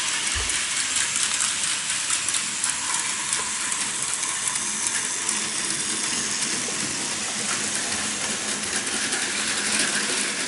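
Plarail Advance toy trains and N-gauge model trains running on their track: a steady whirring rattle of small motors and plastic wheels, with many little clicks from the wheels over track joints.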